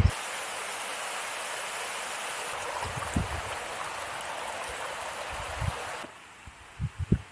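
Mountain stream rushing steadily, cutting off abruptly about six seconds in. A few soft low thumps sound over it, clustered near the end.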